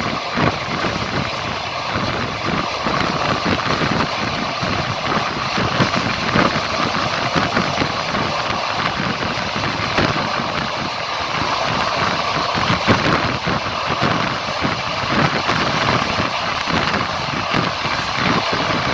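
Passenger train running on the rails, heard from a carriage window: a steady rumble with irregular clatter of the wheels on the track.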